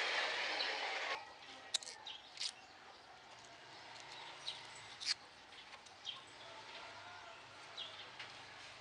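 Faint short high bird chirps, repeated every second or two, with a few sharp clicks; a louder rush of noise cuts off about a second in.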